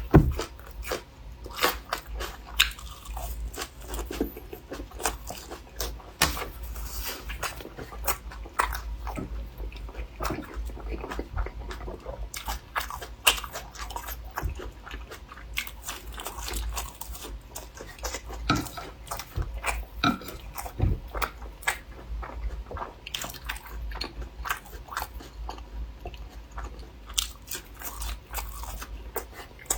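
Close-miked mouth eating sounds: irregular biting and chewing with frequent crunches and wet clicks.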